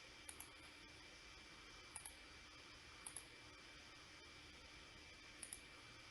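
Computer mouse clicks: four quick double-clicks spread across a few seconds, over a faint steady hiss and hum.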